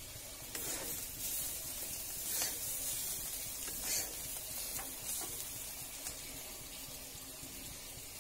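Sliced gourd sizzling as it fries in a black iron kadai, with a metal spatula stirring and scraping the pan in a few short strokes between about half a second and five seconds in.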